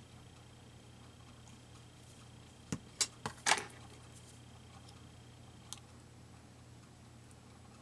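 Small craft items being handled on a tabletop: a quick cluster of four sharp clicks and taps about three seconds in, and one more small click near six seconds. A faint steady hum and high whine run underneath.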